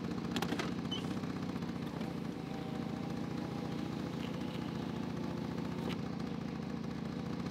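Jeep engine idling steadily, with a few clicks about half a second in. A faint whine runs for a few seconds as the driver's window closes and ends with a click just before the six-second mark.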